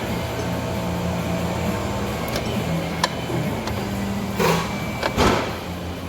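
Light metallic clicks of hand tools and parts being handled under the hood, then two louder clanks near the end, over a steady low hum.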